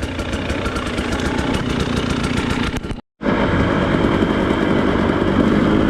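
Off-road motorcycle engine running at low revs on the rider's own bike, with a split-second drop to silence about three seconds in.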